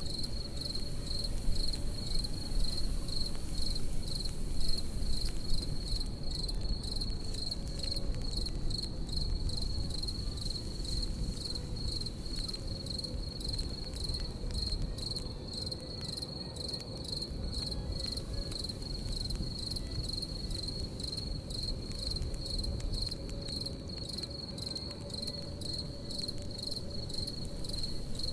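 Crickets chirping in a steady, even, high trill over a crackling campfire, whose small sharp pops and snaps sit on a low rumble; a few louder pops come in the first several seconds.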